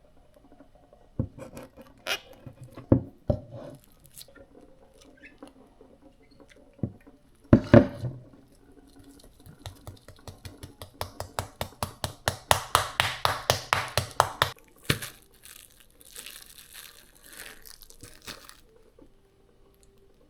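Kitchen food-prep sounds: scattered knocks of utensils, a louder clatter about eight seconds in, then a run of quick, even strokes lasting about five seconds, followed by softer scraping.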